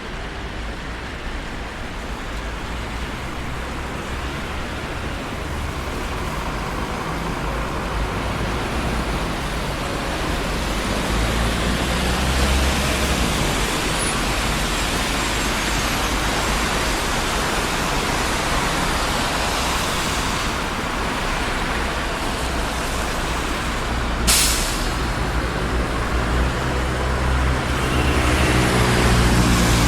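Traffic on a busy city street: a steady wash of tyre and engine noise from passing vehicles, swelling with a deeper engine rumble as heavier vehicles go by. A brief sharp hiss comes about two-thirds of the way through.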